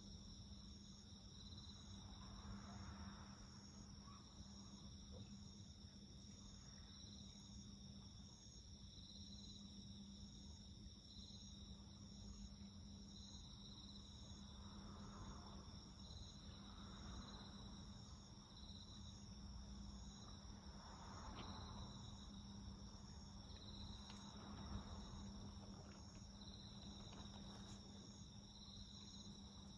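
Faint insects singing: several steady high trills together, two of them pulsing about once a second. A few soft crackles come from the wood fire.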